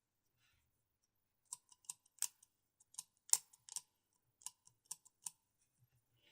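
About a dozen sharp, irregular clicks and taps, beginning about a second and a half in, from hands handling the GoPro Hero 4 Silver packaging.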